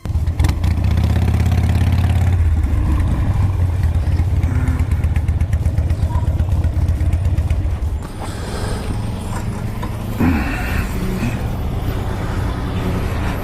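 Motorcycle engine running at a steady speed, a low even drone that drops to a quieter level about eight seconds in.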